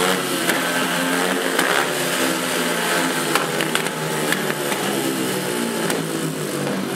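Several speedway motorcycles' single-cylinder engines running together at the start line, their revs rising and falling as the riders blip the throttles. A few sharp clicks near the middle.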